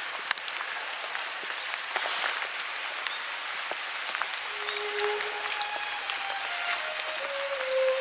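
Bonfire crackling and popping, a steady hiss of many small snaps, with a faint whistling tone sliding down in pitch in the second half.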